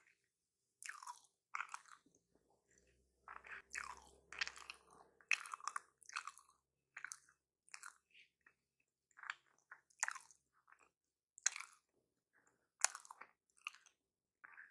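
Close-miked chewing and biting of a footlong hot dog in a bread bun, in short irregular bursts.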